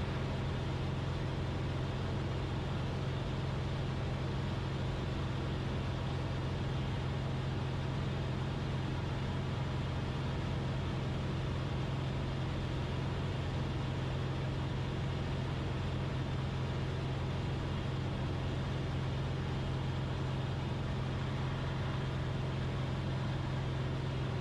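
Cessna 172RG's four-cylinder Lycoming engine and constant-speed propeller droning steadily in the cabin during a shallow climb at reduced power, set to 25 inches of manifold pressure and 2500 rpm.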